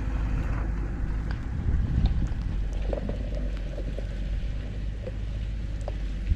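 A vehicle engine idling steadily, a low even hum with a few faint ticks over it.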